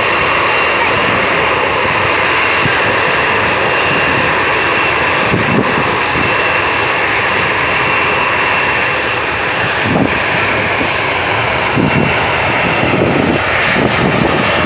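Jet engines of a Boeing 737-800 (CFM56 turbofans) running steadily: a loud, even rush with a thin, steady high whine, and a few brief low bumps in the second half.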